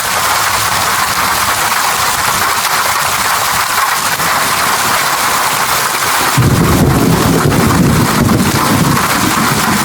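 Steady heavy rain hissing. About six seconds in, a low rumble of thunder comes in under the rain and keeps going.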